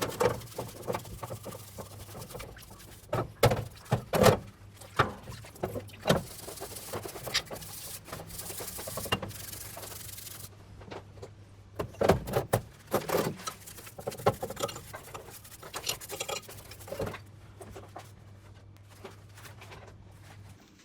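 Engine parts being washed: scrubbing and rubbing, with irregular knocks and clinks of metal parts being handled, and a hiss of washing for a few seconds midway. A steady low hum runs underneath and stops near the end.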